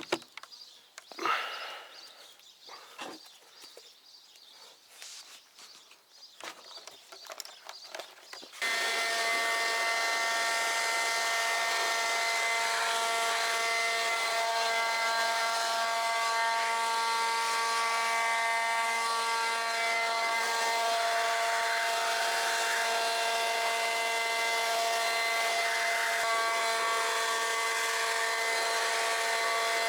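Ryobi 40V cordless leaf blower switched on about a third of the way in, then running steadily: a motor whine over rushing air, blowing rinse water off the car. Before it starts there are only scattered clicks and handling sounds.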